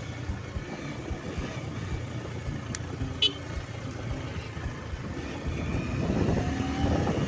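Motorcycle engine running while riding, with road and wind noise; the engine note rises and grows louder near the end as the bike speeds up.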